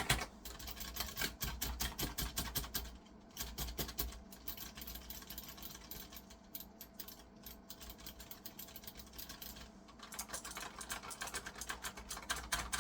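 Computer keyboard keys clicking in quick, irregular runs, many clicks a second, thinning out in the middle and coming thick again near the end.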